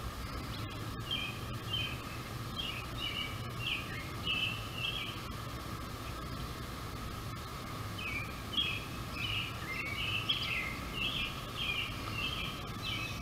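A songbird singing two bouts of short, repeated high phrases, the second starting about eight seconds in, over a steady background hum.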